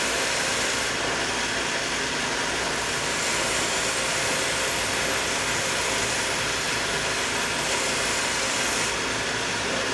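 Powered belt grinder running steadily with a plain leather strop belt, used to strip the burr off a freshly sharpened knife edge.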